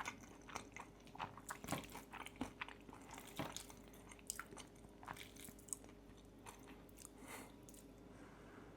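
Close-miked eating: chewing and biting with irregular small crunches and wet clicks, from pasta with pistachio pesto and crispy bacon.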